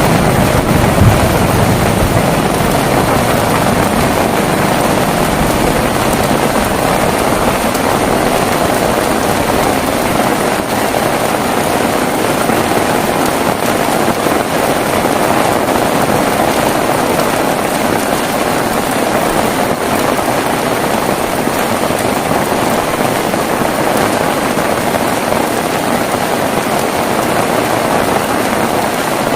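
Heavy rain falling in a steady, dense downpour, with a brief low rumble in the first couple of seconds.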